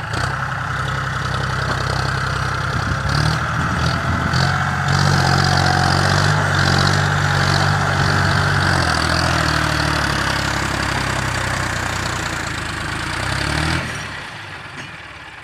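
John Deere 5055 tractor's diesel engine working under load, pulling a fully loaded trolley. The engine note rises about three to five seconds in, holds steady, then drops away shortly before the end.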